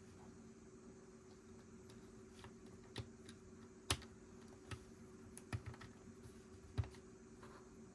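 Plastic Lego pieces being handled and pressed together: scattered sharp clicks, the loudest about four seconds in, over a faint steady hum.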